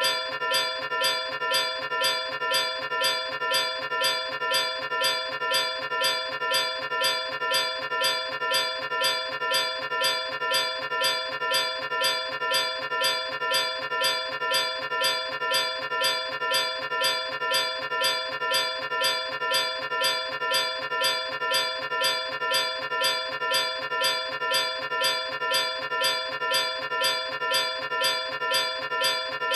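A bell-like tone struck over and over at a steady, even pace, each ring running into the next, with no break or change.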